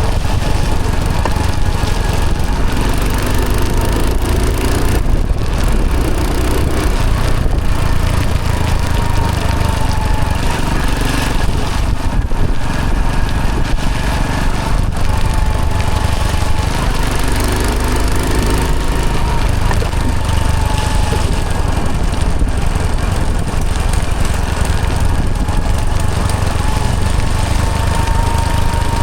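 Hero Honda CD100's small single-cylinder four-stroke engine running steadily while the motorcycle is ridden, heard from on the bike.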